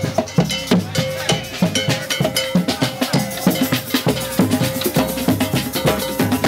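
Percussion music with a steady drum beat of about four strikes a second, over a held ringing tone.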